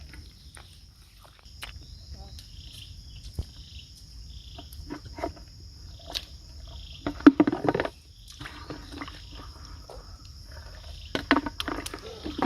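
Insects chirring in one steady high-pitched drone, with scattered clicks and short louder bursts of handling noise about seven and again about eleven seconds in.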